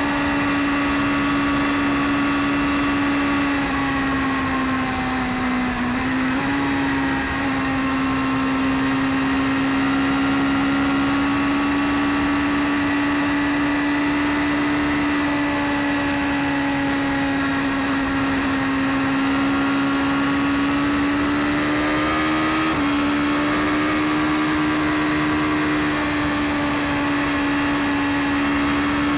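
BMW S1000RR's inline-four engine running steadily at cruising speed with an even, high-pitched note. The note sags slightly about five seconds in, then steps up a little twice, once just after that and again about three-quarters of the way through, over a steady rushing noise.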